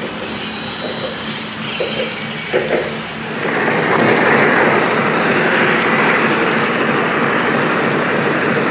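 O gauge model train running, with the sound growing suddenly louder and staying steady from about three and a half seconds in.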